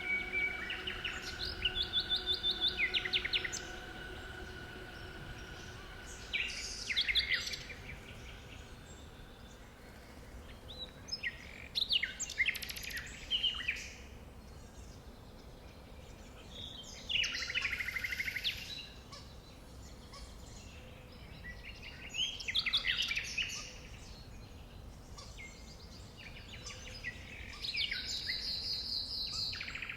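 A songbird singing short, rapid trilled phrases high in pitch, repeated about every five seconds over faint steady outdoor background noise. Held music notes fade out during the first few seconds.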